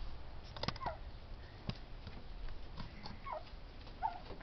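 Faint, short poultry calls: three soft whining notes that slide in pitch, with a few light clicks and scuffs in between.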